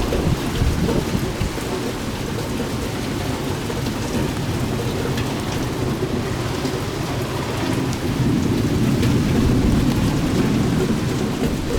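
Steady rain falling in a thunderstorm, with a low rumble of thunder that swells louder about eight seconds in.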